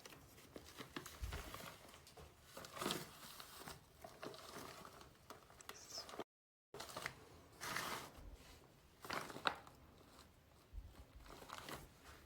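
Old paper books being handled: irregular rustling and crinkling of pages and covers.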